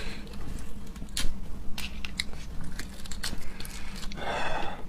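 Close-up biting and chewing of raw seafood, with scattered sharp clicks and crunches; the seafood is not yet thawed. About four seconds in there is a brief noisy rush of sound.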